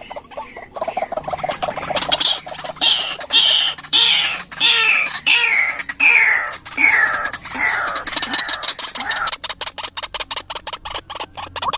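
White-breasted waterhen calls: a series of harsh notes falling in pitch, about two a second, over a fast stuttering, clicking chatter that carries on alone after the falling notes stop near the end.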